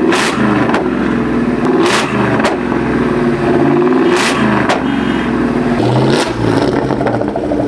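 Car engine revving hard in short bursts, its pitch jumping up and down, with several sharp exhaust bangs breaking through.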